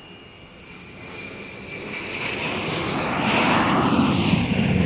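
Airliner engine noise swelling over a few seconds to a loud rush, the sound of the plane taking off.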